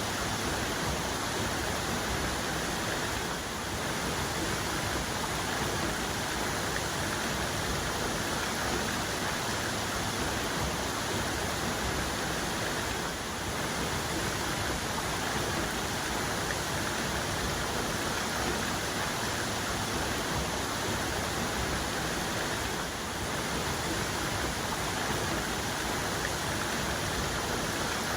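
Waterfall cascade: a dense, steady rush of falling water.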